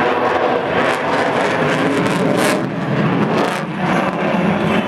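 Loud, steady jet noise from an F-22 Raptor's two F119 engines as it flies its display, dipping slightly a couple of times in the second half.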